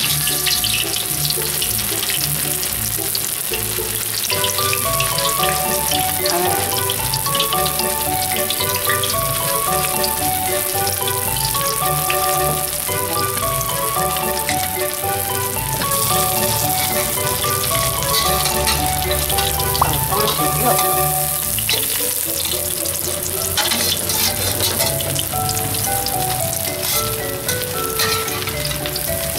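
Battered tofu pieces frying in shallow oil in a wok: a steady crackling sizzle, with a metal spatula moving the pieces now and then. Light background music with a simple melody and bass runs underneath from a few seconds in.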